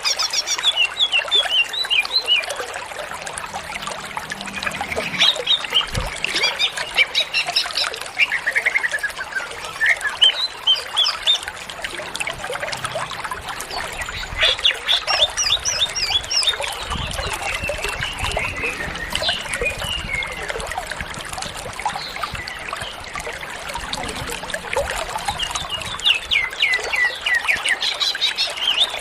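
Cucak ijo (green leafbird) singing on and on: a fast, varied run of chirps, trills and short whistled phrases, filled out with mimicked song, over a steady hiss.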